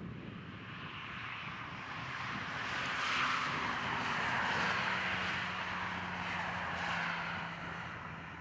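Diesel-hauled 760 mm narrow-gauge train running away along the track. Its engine and wheel noise swell, with a faint steady hum and a few light clicks, then fade.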